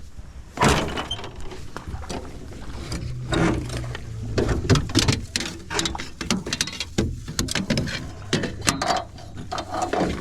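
Repeated clattering knocks and thumps in a small fishing boat while a hooked smallmouth bass is brought alongside.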